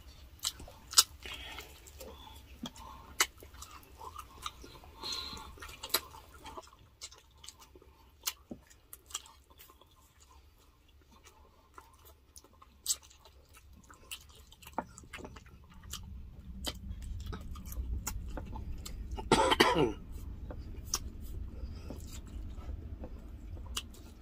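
Close-miked chewing of grilled chicken and fish eaten by hand, with wet mouth sounds, lip smacks and scattered sharp clicks. A short, loud vocal sound, like a cough or hum, breaks in about 19 seconds in.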